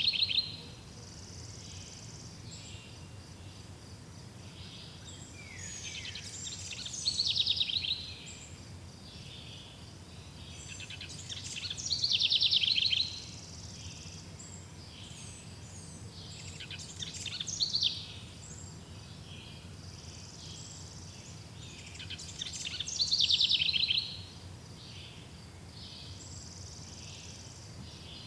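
A songbird singing the same loud, high-pitched phrase about every five seconds, each lasting a second or two, with softer chirps in between, over a steady low background hum.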